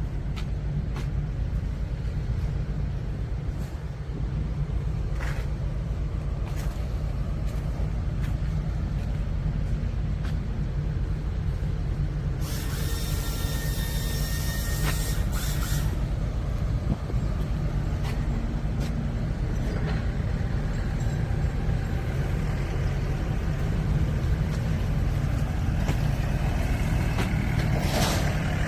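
Used bus diesel engine running steadily at idle, a low even rumble, with a loud hiss of released air for about three seconds midway.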